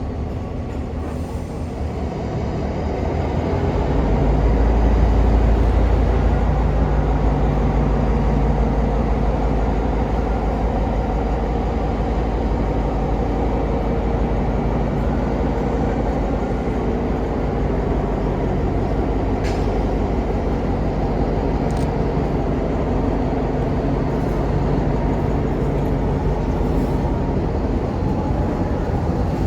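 EMD GP9 diesel locomotive's 16-cylinder 567 engine running with a deep, steady rumble. The rumble swells about four seconds in, then holds steady.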